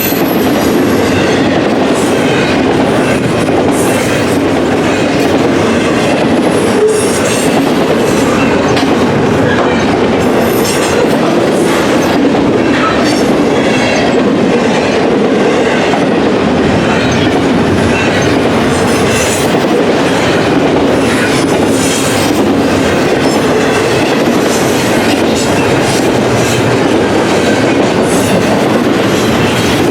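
Freight train cars rolling past on the BNSF main line, a steady loud rumble with the wheels clicking over the rail joints.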